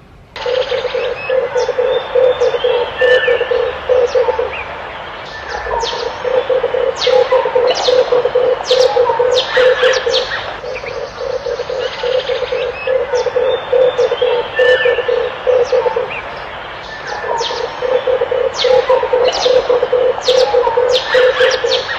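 Red turtle dove cooing in long runs of rapid, low, pulsed notes, with short pauses between phrases, while small birds chirp in high, short notes above it.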